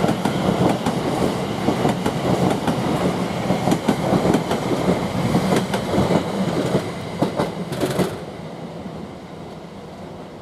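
Greater Anglia Class 720 electric multiple unit moving through the station, wheels clicking and rumbling over the rails. The noise falls away sharply about eight seconds in.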